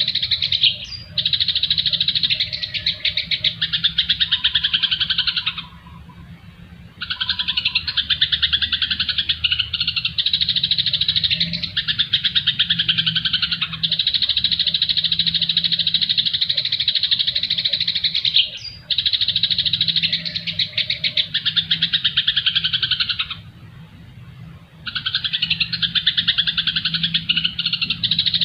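Songbirds giving rapid, unbroken chattering trills in long bouts of several seconds, pausing twice for a second or so, over a low steady hum.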